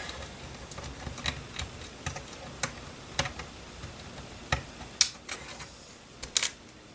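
Small, irregular plastic clicks and taps from a plastic pry tool prying up small wire connectors, with a sharper pair of clicks near the end.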